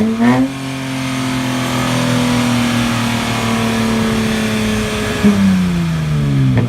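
Holden VZ Commodore engine revved hard: the revs climb quickly, hold steady at high rpm for about five seconds, then fall away near the end.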